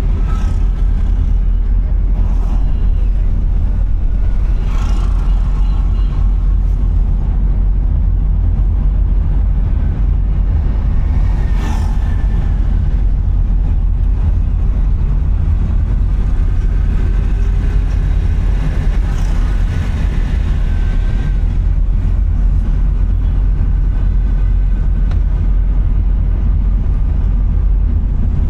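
A car driving on a city road: a steady low rumble of engine and road noise, with a few brief louder sounds from passing traffic now and then, one near the middle.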